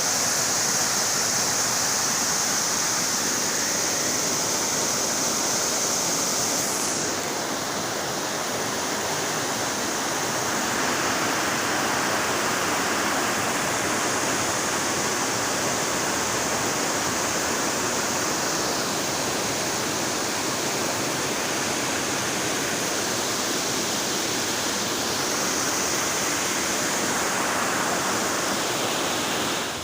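Waterfall rushing: a steady, dense hiss of falling water whose tone changes a few times.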